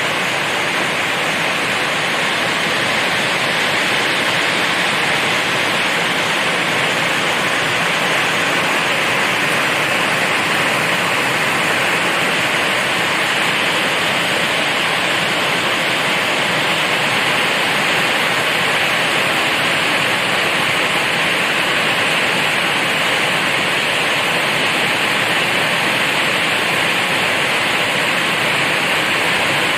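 Steady heavy rain: a loud, even hiss with no breaks.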